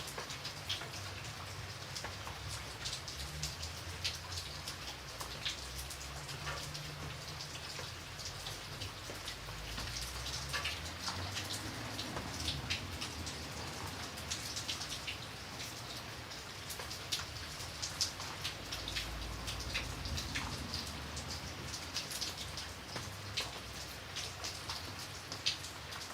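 Steady rain with many individual drops tapping and pattering on a surface, over a low rumble.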